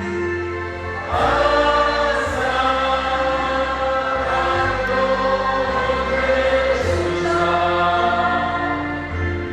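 A choir of many voices singing a slow hymn in long, held notes. A new, louder phrase begins about a second in.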